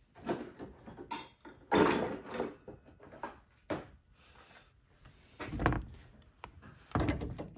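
Irregular handling noises of a removed EGR valve and hand tools: a few knocks and clunks with scraping between them.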